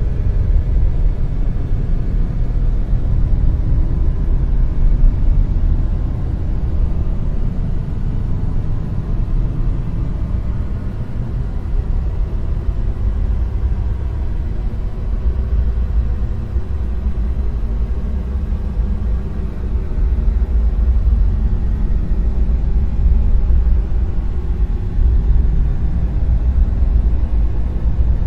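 Dark noise wave: a deep, continuous rumble of noise with most of its weight in the bass, slowly swelling and easing, with faint held tones above it.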